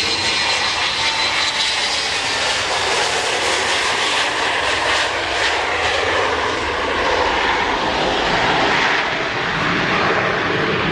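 Boeing 727's Pratt & Whitney JT8D-217 turbofan engines running loud and steady as the jet airliner flies its takeoff and display, with a faint tone in the noise drifting slowly lower.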